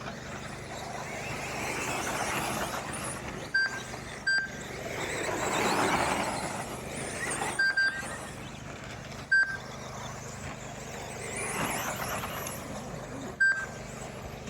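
Radio-controlled 2WD short course trucks racing past, their motor and tyre noise swelling and fading as the pack goes by. A short high electronic beep cuts in every few seconds, about six times, and is the loudest sound; it is typical of the lap-counting system as cars cross the timing line.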